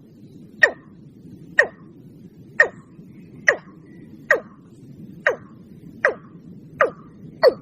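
Watercock (ayam-ayaman) calling: a series of short notes that slide down in pitch, about one a second, coming a little faster near the end, over low steady background noise.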